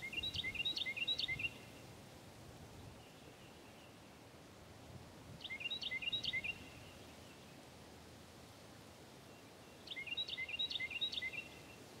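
A songbird singing three short songs about five seconds apart. Each song is a quick run of repeated high notes lasting about a second and a half.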